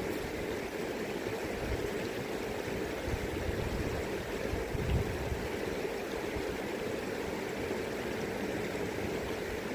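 River current running steadily, with occasional low gusts of wind on the microphone, the strongest about five seconds in.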